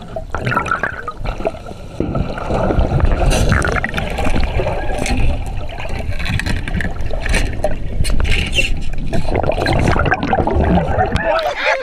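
Water sloshing and rushing with a heavy low rumble, getting louder about two seconds in.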